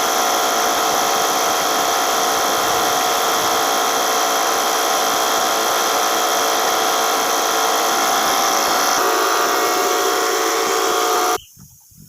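Paint sprayer running steadily for topcoat, a dense whine with several steady tones. Its sound thins a little about nine seconds in, and it cuts off suddenly near the end.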